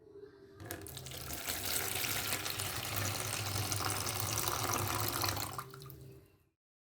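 Water running steadily, as from a tap, starting about half a second in and fading out near the end.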